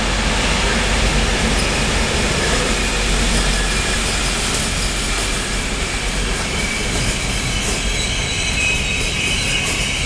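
Train rolling along the rails with a steady rumble of wheels and wagons, and a thin metallic wheel squeal coming in over the second half.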